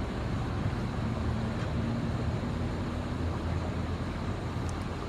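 Steady low rumble of distant road traffic, with an engine hum rising out of it for a couple of seconds.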